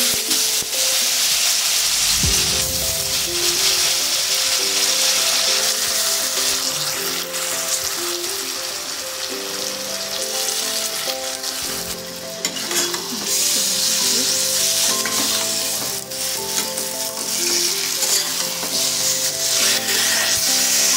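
Chopped black mushrooms sizzling in hot oil with browned onions in a steel kadai, stirred with a spatula, as the wet mushrooms start giving off their water into the pan.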